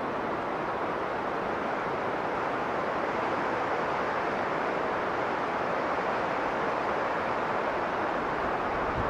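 Blizzard wind blowing strongly and steadily, a continuous rushing noise that holds the same level throughout.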